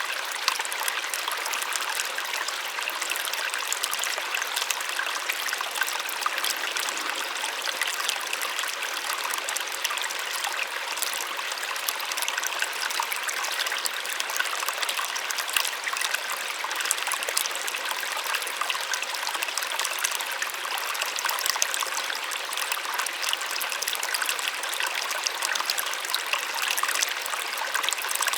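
Small waterfall: water splashing and trickling down in a steady, bright hiss with fine splashes and little low rumble.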